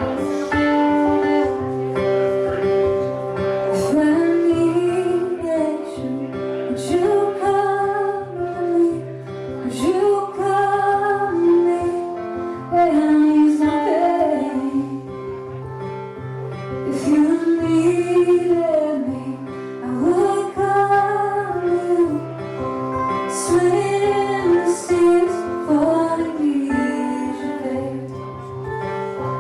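A woman singing a slow song to guitar accompaniment, with sustained, sliding vocal lines over strummed and picked chords.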